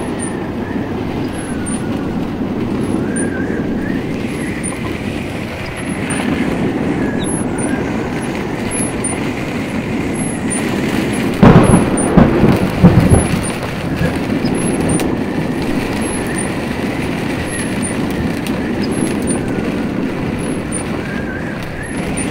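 Severe thunderstorm wind and heavy rain lashing a parked semi-truck cab, a steady loud rushing and buffeting. About eleven seconds in, a burst of loud thumps lasts about two seconds.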